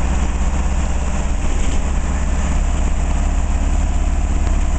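Engine of the Mufflermobile, a muffler-shaped novelty car, running steadily with a deep, even hum, heard from inside the vehicle as it drives.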